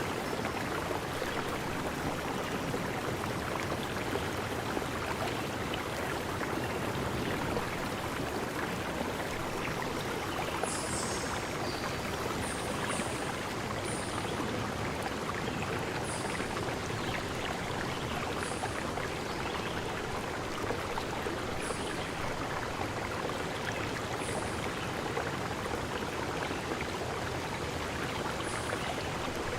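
Forest stream flowing, a steady, dense rush of water. From about eleven seconds in, short high-pitched chirps come every two to three seconds.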